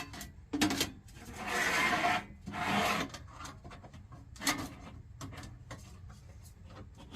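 Hands handling parts of a forced-air heater being reassembled: rubbing and scraping noises, two longer scrapes in the first three seconds, then a sharp click about four and a half seconds in.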